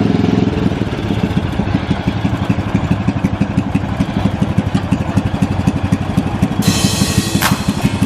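Riding lawnmower's small gasoline engine running steadily with rapid firing pulses. A hiss joins in near the end.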